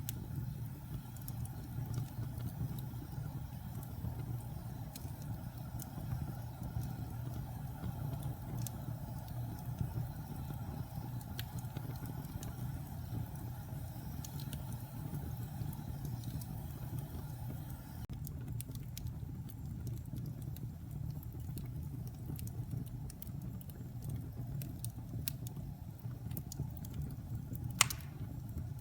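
Log fire burning in a fireplace: a steady low rumble of flames with scattered small crackles and pops, and one sharper pop near the end.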